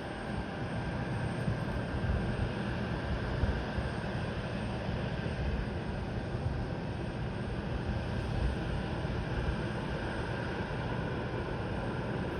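Jet airliner's engines running steadily at a distance, a constant low rumble with a faint whine, with wind buffeting the microphone.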